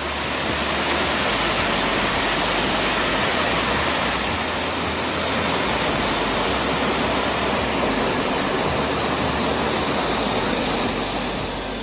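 A loud, steady rushing noise without any pitch or rhythm, fading in at the start and out near the end.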